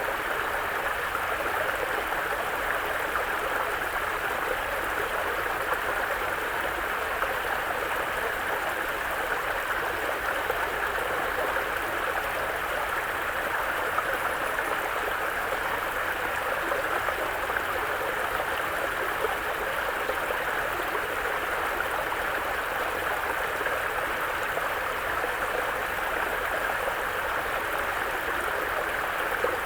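A mountain brook running steadily over rocks, a constant even rush of water with no other sound rising above it.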